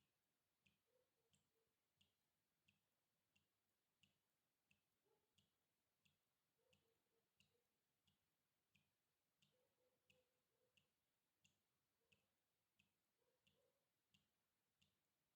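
Water dripping steadily, about one and a half drops a second, each drop a short, very faint click, some with a brief pitched plink.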